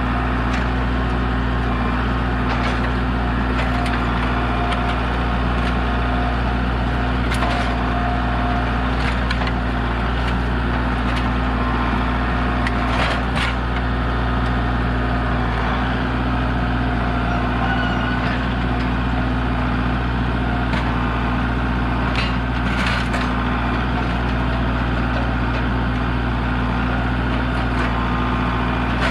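An engine running steadily, with a few sharp cracks and snaps of parts breaking as a mower is wrecked.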